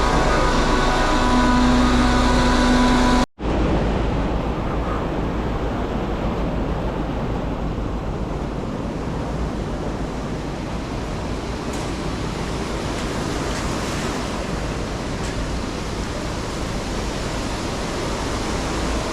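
A vacuum truck running, first with a steady engine hum carrying several steady tones. The sound breaks off for an instant about three seconds in, then an even rushing noise follows as the truck pumps water out of a reservoir.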